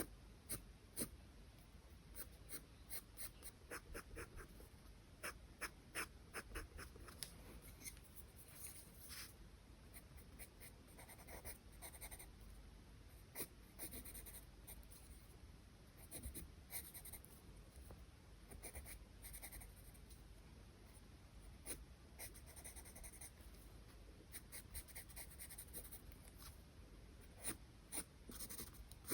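Charcoal pencil scratching across paper in quick, irregular strokes.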